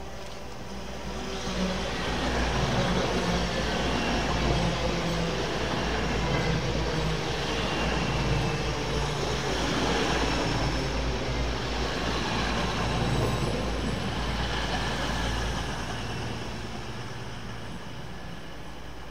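A diesel train passing through the station: it grows louder over the first couple of seconds, runs loud with a low engine note and rail rumble for about twelve seconds, then fades near the end.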